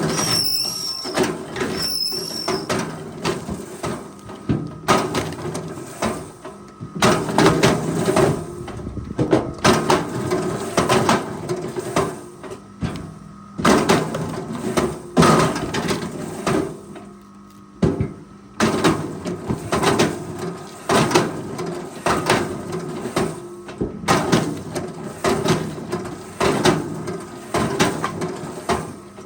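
Forestry machine at work handling logs: a steady engine drone under many sharp knocks, cracks and creaks of wood.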